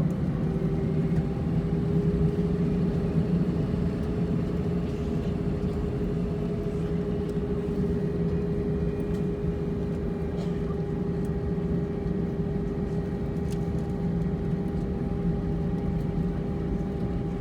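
Steady cabin noise inside an Airbus A320-232 on the ground before takeoff: a constant low hum from its IAE V2500 engines at idle and the air conditioning, with a steady tone and a fainter higher tone joining about ten seconds in.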